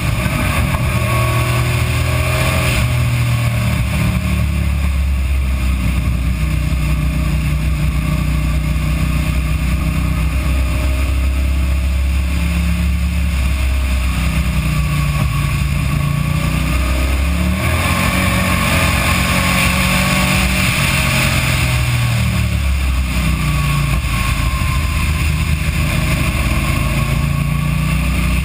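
Race car engine at high revs on a track lap, its note rising under throttle and falling off for the corners several times, with a shift from second to third gear. The recording is poor.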